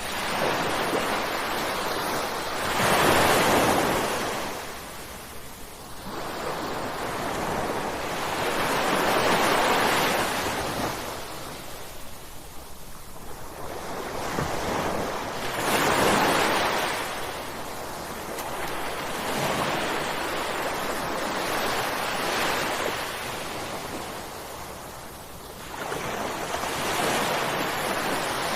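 Ocean waves breaking on a shore, each swell of surf rising to a crash and washing back, about every six seconds.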